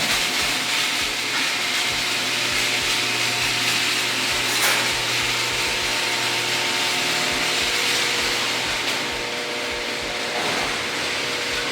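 Electric garage door opener running as the door travels, a steady mechanical hum over a noisy rush that starts abruptly and stops near the end.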